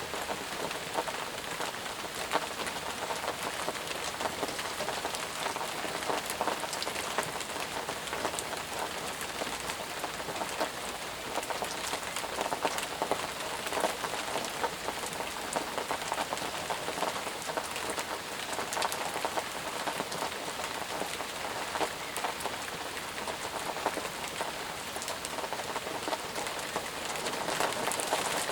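Steady rain falling on a surface, with many individual drops ticking and pattering through a constant hiss.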